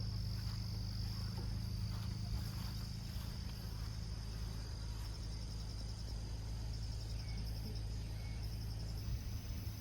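Summer insects chirring: a steady high-pitched drone, with rapid trains of pulses twice in the second half. A steady low hum runs underneath.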